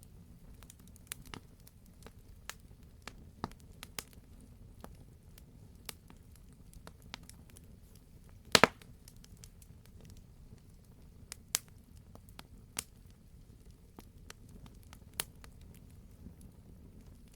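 Wood fire burning in a fireplace: scattered crackles and pops over a low, steady rumble. The loudest is a quick double crack about eight and a half seconds in.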